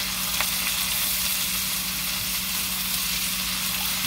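Chopped squash frying in a pan, sizzling steadily.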